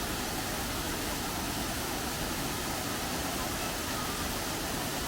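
Steady rushing roar of the Savdav waterfall, an even noise without pitch or rhythm.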